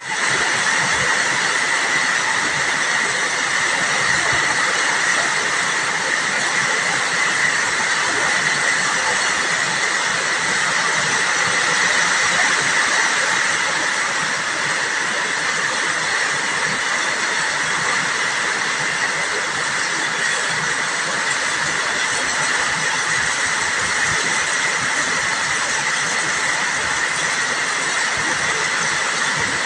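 Rain shower falling steadily, an even hiss.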